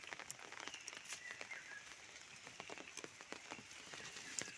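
Faint outdoor ambience: scattered light ticks and crackles, with a few faint bird chirps about a second in.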